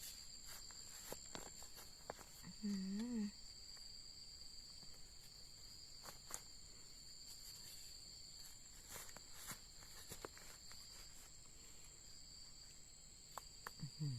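Steady high insect drone, two constant pitches, with scattered light clicks and rustles of someone moving through the undergrowth, and a brief voiced exclamation about three seconds in.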